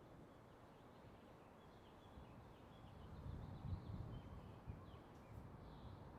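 Faint ambient background noise: a low rumble that grows louder about three seconds in, with faint short high chirps, like distant birds, scattered through it.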